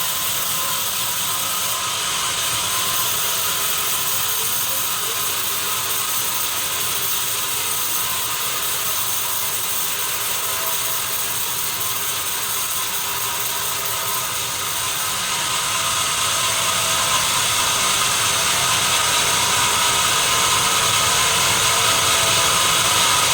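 Sawmill saw running steadily, a continuous mechanical noise with several steady high-pitched tones, growing somewhat louder about two-thirds of the way through.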